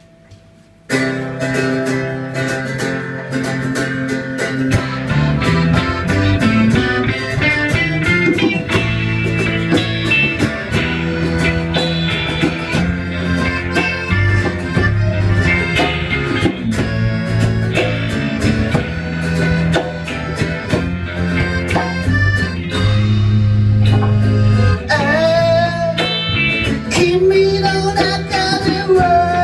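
Live band music starting suddenly about a second in: a guitar-led song intro over bass and drums, with a singing voice coming in near the end.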